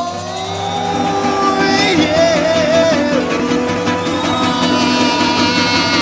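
Live music: a long held melody note that glides and wavers, over a quick, even patter of pandeiro jingles.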